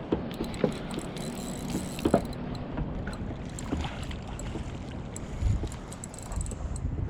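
Water sloshing against a kayak's hull, with wind on the microphone and a few scattered knocks on the boat.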